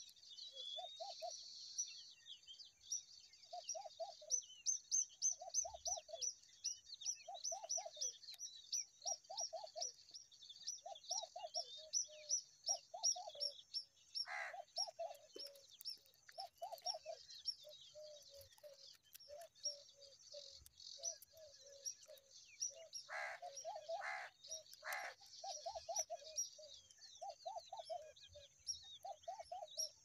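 Wild birds calling: a fast run of high, thin chirps, a few per second, over a lower call repeated about once a second, with a few louder notes around the middle and again near the end.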